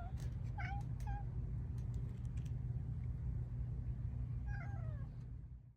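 Domestic cat meowing: two short meows about half a second and a second in, and a longer falling meow near the end, over a steady low rumble.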